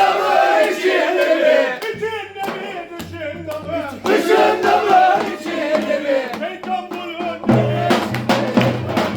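Turkish folk dance music (oyun havası) with a group of voices singing or chanting over it; a drum comes in strongly about seven and a half seconds in, beating a steady rhythm.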